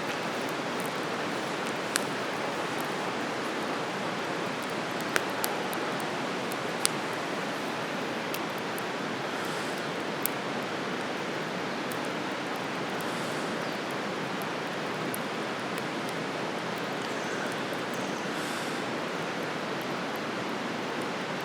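Wood campfire burning with a handful of sharp crackling pops over a steady rushing hiss.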